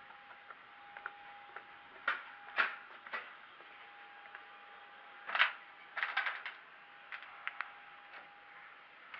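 Scattered sharp clicks and knocks, irregularly spaced, the loudest about two and five and a half seconds in and a quick cluster around six seconds, over a faint steady hum and hiss.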